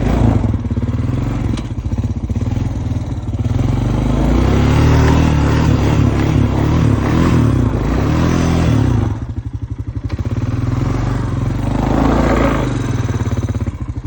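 Honda Foreman ES ATV engine running and revving hard under throttle: a long rev in the middle, a brief drop, then a second rev near the end.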